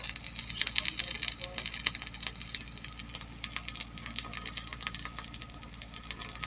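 Electric arc welding: the arc crackling steadily with dense, irregular sputtering.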